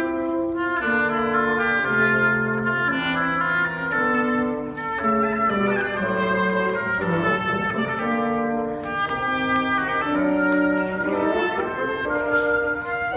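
Woodwind quintet of flute, oboe, clarinet, horn and bassoon playing a chordal passage of held notes that change every half second to a second.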